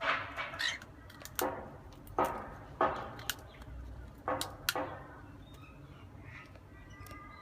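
Cockatiel's beak pecking and crunching at a cracker biscuit: a run of short crackly crunches with a few sharp clicks, about seven in the first five seconds, then quieter.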